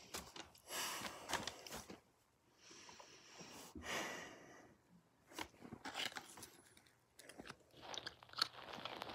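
A person eating hummus close to the microphone: crunchy bites and chewing in several bouts, with short pauses between them.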